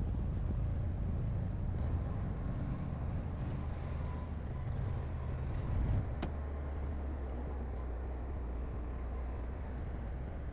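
Heavy diesel engine of earthmoving machinery running with a low, steady drone. A sharp click about six seconds in, after which the engine settles to a slightly lower, steadier note.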